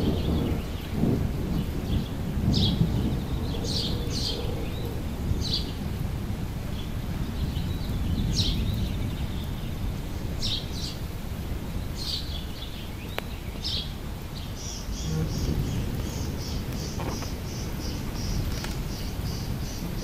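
Songbirds giving short, high, falling chirps every second or two, then, about three-quarters of the way through, a fast run of repeated high notes. Underneath is a low, uneven rumble that runs throughout.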